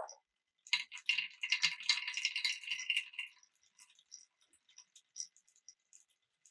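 Marbles rattling and clicking along a wooden marble run: a dense clatter of rapid clicks lasting about two and a half seconds, starting just under a second in, then thinning to scattered single clicks.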